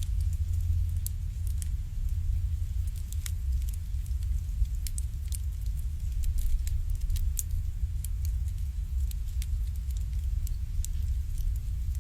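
Wood fire burning in an irori, a Japanese sunken hearth: irregular sharp crackles and pops, a few each second, over a steady low rumble.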